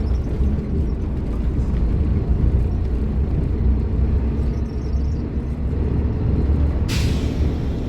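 Scania K310IB bus's diesel engine, a 9-litre inline five-cylinder, running with a steady deep rumble. A short hiss of released air comes about seven seconds in.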